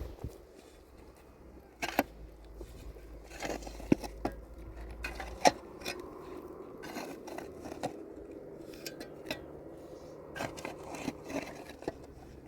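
Scattered light knocks, clinks and scrapes of objects being handled, with a few sharper knocks about two, four and five and a half seconds in.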